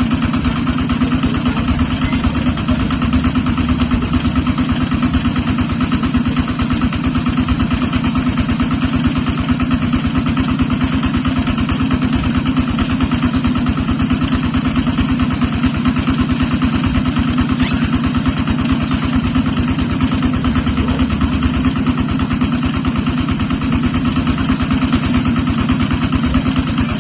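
A small engine running steadily at a constant speed, with a fast, even low pulse.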